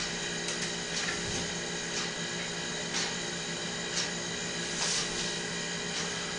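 A steady mechanical hum with faint ticks about once a second.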